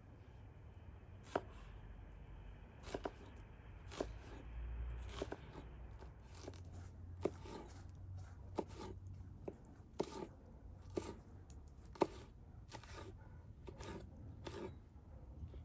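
Knife chopping food on a cutting board: sharp single strokes, irregular, about one a second.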